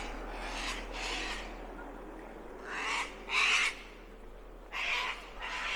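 A bird calling with harsh, raspy calls that come in pairs, a louder pair about three seconds in and another near the end.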